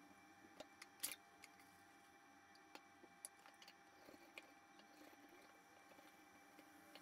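Near silence with faint, scattered clicks and light knocks of a lemon juicer being worked by hand, the loudest knock about a second in, over a faint steady hum.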